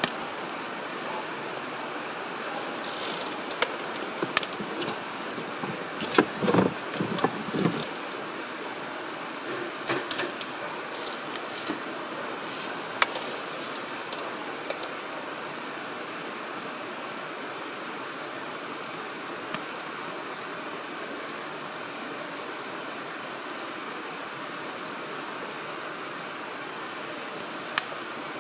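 Wood fire burning in a firewood grill: a steady hiss with a run of sharp crackles and pops in the first dozen seconds, busiest around the middle of that stretch, then just the hiss with an occasional single pop.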